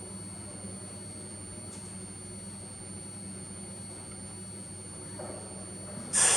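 Subway platform ambience: a steady low hum with a faint high-pitched whine while a Sapporo Municipal Subway 8000 series train stands at the platform. Near the end comes a sudden loud hiss that fades over about a second.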